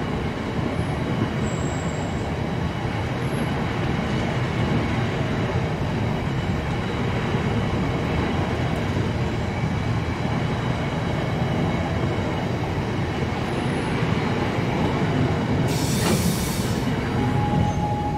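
Bogie hopper wagons of a freight train rolling past: a steady rumble of wheels on the rails. About sixteen seconds in there is a brief hiss, and near the end a thin steady high tone sets in.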